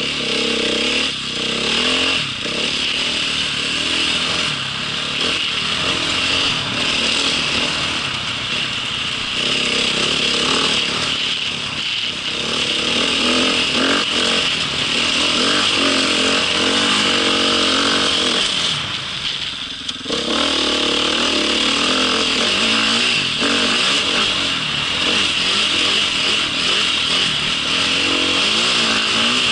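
Small vehicle engine running steadily while riding, with a short drop in level about nineteen seconds in.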